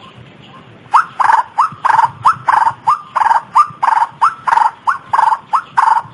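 White-breasted waterhen ('ruak-ruak') calling: after about a second's pause, a fast run of short, loud, hooked croaking notes, about three a second. It is a recorded lure call, played to draw the birds in.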